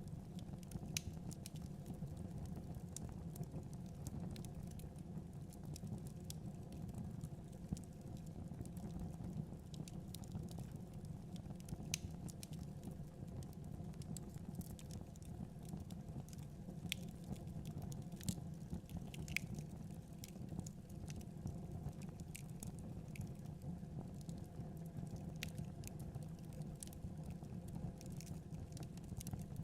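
Fire burning in a fireplace: a steady low rumble of the flames with frequent sharp crackles and pops at irregular moments.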